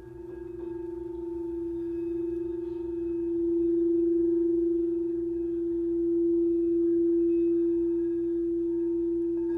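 Quartz crystal singing bowl ringing in one long sustained tone, swelling in loudness over the first few seconds and then holding steady.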